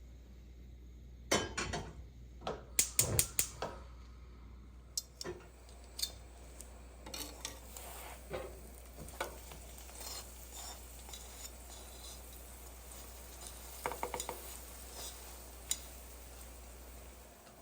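Kitchen dishes and cutlery clinking and clattering: a quick run of knocks and clinks near the start, then scattered single clinks.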